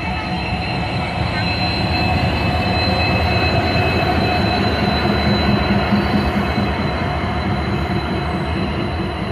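Passenger train rolling slowly into a station, a heavy steady rumble with a high, steady squeal from the wheels and brakes as it slows.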